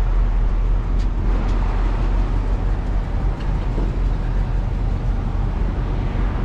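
Ford Mustang GT's V8 engine idling steadily as a low hum. The car is being flat-towed with its engine left running, which is taken to be for lubricating the transmission.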